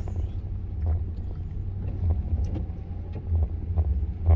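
Low, steady rumble of a vehicle engine, with scattered light clicks and a louder knock near the end.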